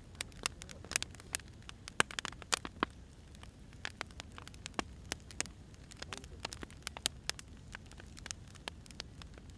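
Firewood burning, crackling and popping at irregular intervals over a low steady rumble.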